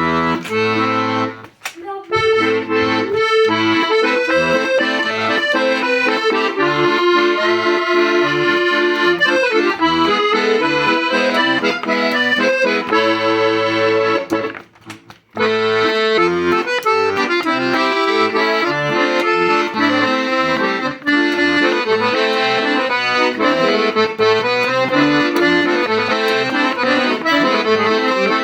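Hohner Contessa 3M piano accordion playing a melody over a bass-and-chord accompaniment, the low notes pulsing in a steady rhythm. The playing breaks off briefly about halfway through, then resumes.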